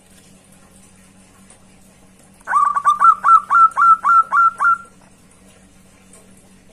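Zebra dove (perkutut) calling: after a pause, a quick run of about ten short coos, each dropping in pitch, at roughly four a second.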